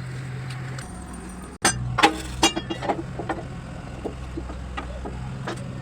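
Metal-on-metal clinks and knocks, typical of tools at work on a truck's pin and bush joint. A quick cluster of strikes comes about two seconds in, then single taps, over a steady low engine hum.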